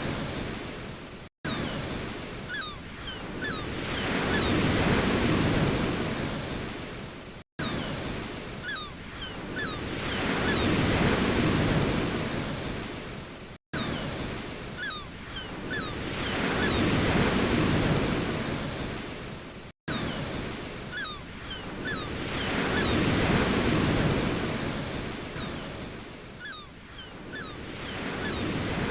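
Ocean waves rolling in and washing back, each surge swelling and fading about every six seconds. The sound cuts out for an instant roughly every six seconds, where a short recording loops.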